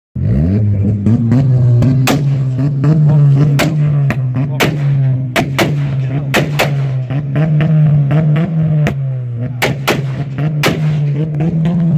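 Modified car engine revved up in the first moment and held at one high engine speed against a rev or launch limiter, with sharp exhaust bangs going off every second or so.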